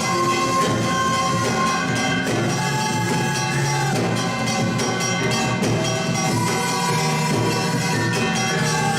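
Korean traditional (gugak) ensemble playing live, with held melody notes over a steady percussion beat.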